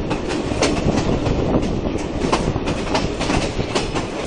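Steam tourist train's passenger carriage running along the track, heard from an open window: a steady rolling noise with sharp wheel clacks over the rail joints, about two a second.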